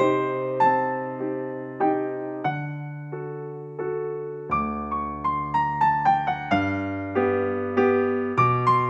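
Background music: a solo piano, electric piano in sound, playing a slow melody. Each note is struck and then fades, and in the middle a run of quicker notes steps downward.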